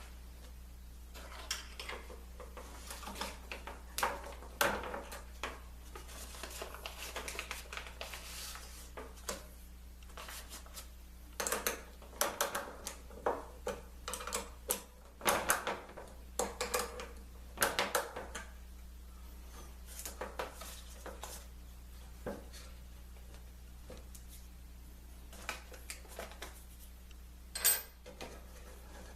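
Intermittent clatter and knocking of hard objects being handled at a workbench, in irregular clusters with a sharp single knock near the end, over a steady low hum.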